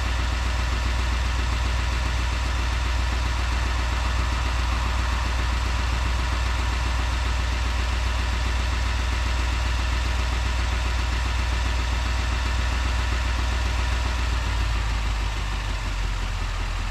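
The 2020 Chevy Silverado 3500 HD's 6.6-litre Duramax diesel V8 idling steadily with an even diesel clatter. It turns slightly quieter and duller near the end.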